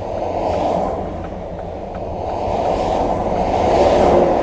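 Steady motor-vehicle road noise, a rumble with tyre hiss that swells a few times as traffic goes by. Faint quick ticking runs through the first half.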